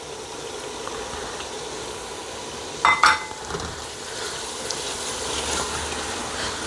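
Onion-tomato masala sizzling as it fries in a large aluminium pot while chopped green chillies are added. About three seconds in come two sharp knocks as the plastic bowl is tapped out with a wooden spoon over the pot.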